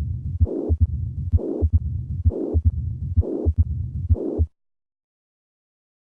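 Heart sounds recorded at the cardiac apex in combined mitral stenosis and mitral regurgitation: low heartbeat thumps a little under once a second, with a murmur filling the gaps between them. The recording stops suddenly about four and a half seconds in.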